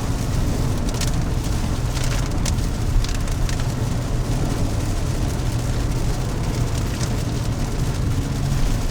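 Car driving in rain, heard from inside: a steady rumble of engine and tyres on the wet road, with scattered taps of raindrops on the body.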